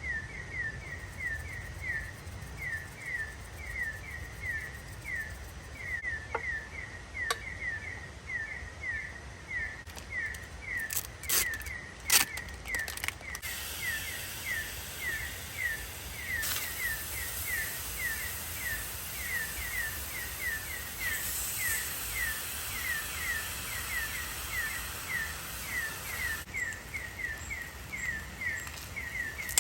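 A small animal calling in a steady, even series of short, high, falling chirps, about two or three a second, over a low background hiss of outdoor ambience. A few sharp clicks come about 11 to 13 seconds in.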